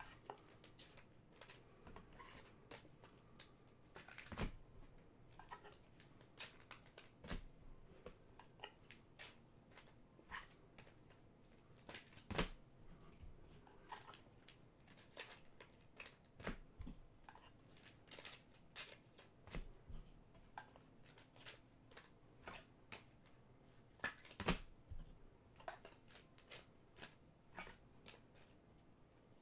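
Faint, irregular clicks, taps and rustles of trading cards and their packaging being handled on a table, a few sharper taps standing out.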